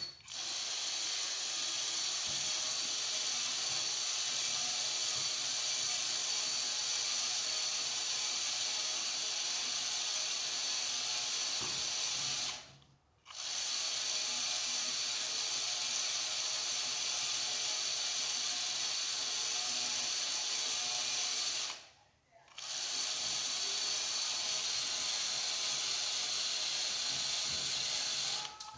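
Small electric drive motor and gears of a rear-wheel-drive model car running steadily with a whirring sound and a faint regular tick about twice a second. The sound cuts out abruptly twice, for about half a second each time.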